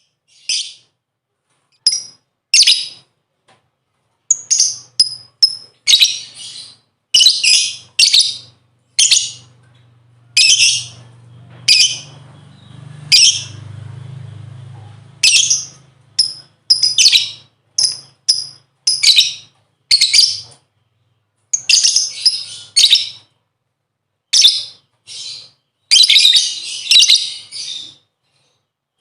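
Lovebird giving rapid, shrill, high-pitched chirps in irregular clusters, with a low hum in the background around the middle.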